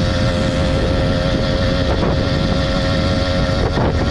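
Small motorbike engine running at a steady, high-pitched drone while being ridden, geared with a new sprocket that makes it slow to build speed. Wind rumble on the microphone underneath.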